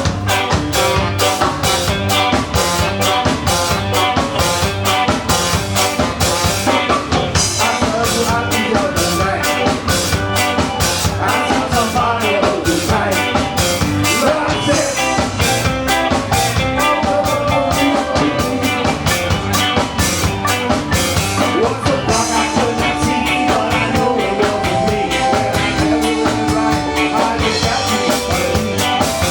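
Live ska band playing a song, with a steady driving drum beat under guitar, bass and other pitched instruments.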